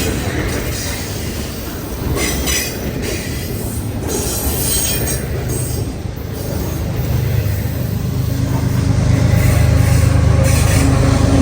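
CN freight train rolling past, its cars rumbling with wheel squeal. In the last few seconds a steady diesel locomotive drone grows louder.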